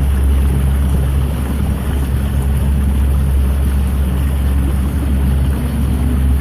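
A whelk fishing boat's engine runs steadily with a low, even drone, mixed with heavy wind rumble on the microphone.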